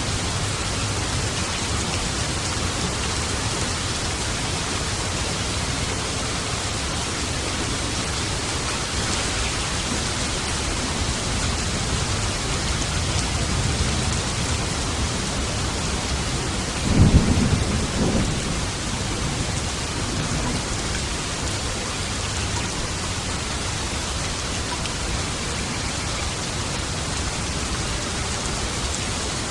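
Steady rain of a thunderstorm, with a sudden clap of thunder a little past halfway that rolls on for about two seconds.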